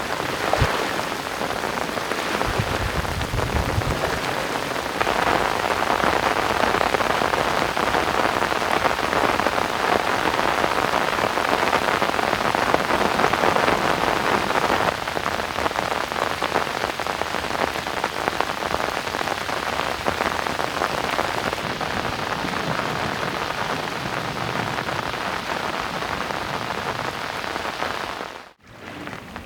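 Steady rain falling, a dense even hiss of drops that cuts out abruptly for a moment near the end.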